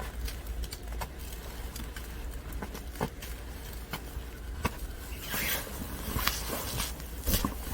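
Snow crunching and being packed by hand: scattered short crunches and pats, growing denser in the second half.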